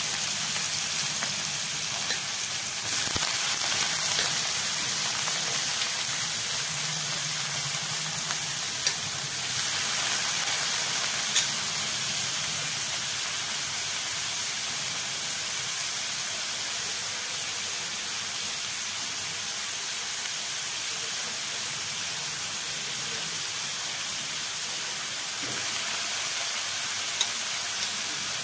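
Diced bottle gourd peel sizzling in hot oil in a kadai: a steady frying hiss with a few faint clicks.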